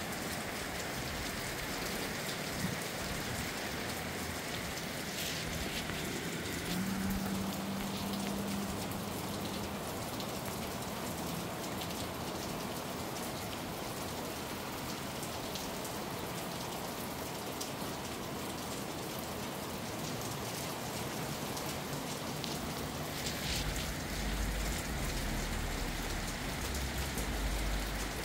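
Steady rain falling, with wind blowing; a low rumble rises near the end.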